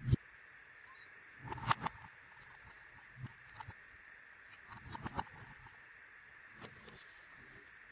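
Tiny plastic toy pieces being handled: scattered light clicks and taps, with small clusters about two seconds in and again about five seconds in, over a faint steady hiss.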